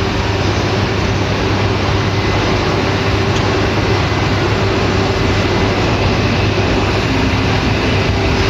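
Steady hum and rush of a shinkansen standing at the platform with its equipment running, while its doors slide shut ahead of departure.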